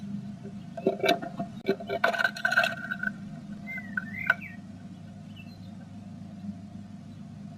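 Blue tit scratching and tapping about inside a nest box, a cluster of sharp clicks and rustles typical of the female working nest material, with a brief chirping call a little past the middle. A steady low electrical hum runs underneath.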